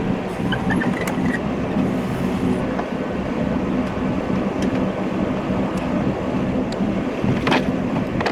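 An engine running steadily, with a few faint ticks and one sharp knock near the end.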